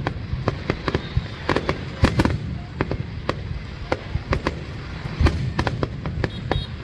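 Fireworks display: a fast, irregular run of sharp bangs and crackles, several a second, over a continuous low rumble of booms.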